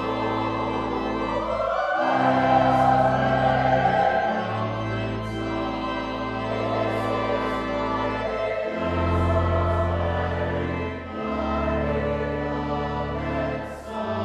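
Church choir singing an anthem over held low organ notes that change every two or three seconds.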